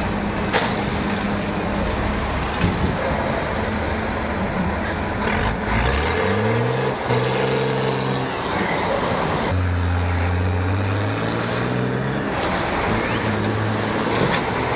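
Heavy vehicle engines running hard under load, their pitch climbing about six seconds in and then shifting up and down as the throttle changes.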